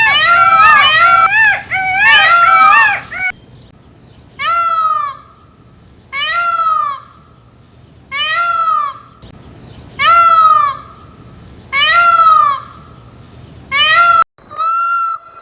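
Peacock calling: loud, wailing, arched cries. Several overlap at first, then single calls about a second long come roughly every two seconds.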